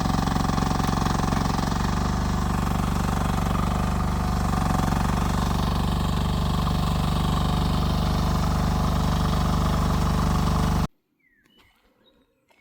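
Rippa R10 mini excavator's engine running steadily, then cutting off abruptly near the end, leaving near quiet.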